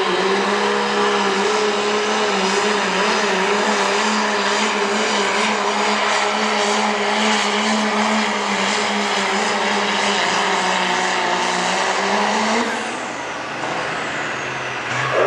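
Turbocharged diesel pickup engine running at steady high revs under full load while pulling the sled. The note holds level for about twelve seconds, then rises briefly and drops away near the end.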